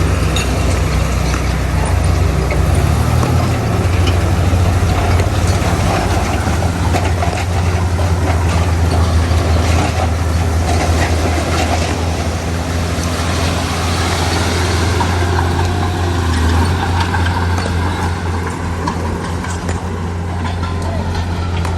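Heavy diesel engine of earthmoving machinery running steadily, with a deep even drone.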